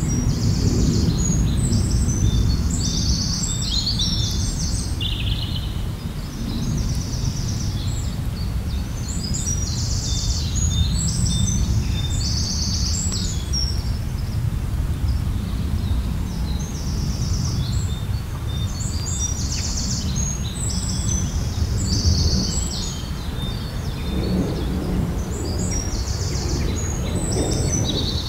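A small songbird sings a fast, high, trilling phrase several seconds long, repeated about every ten seconds, over a steady low rumble of background noise.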